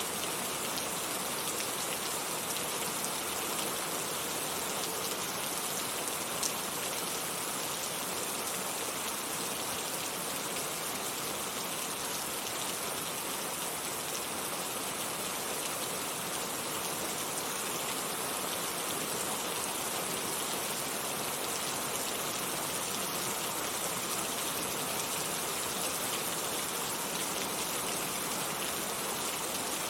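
Heavy rain falling steadily on a surface, a dense even hiss of drops with no let-up and a single small tick about six and a half seconds in.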